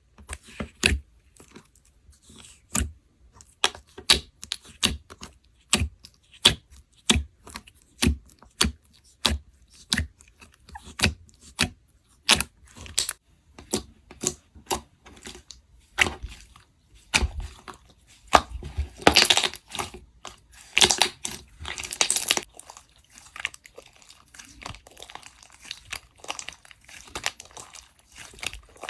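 Crisp crunching and crackling, a sharp crack every half-second to second, with a longer run of tearing and crumbling about two-thirds of the way through.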